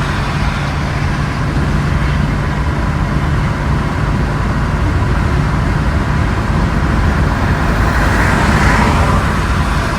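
6.0-litre turbo diesel engine running steadily while the vehicle drives, with a constant low rumble and steady road noise.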